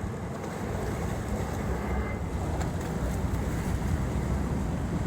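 Waterfront wind and water noise: steady wind buffeting the microphone over a low rumble and the wash of water.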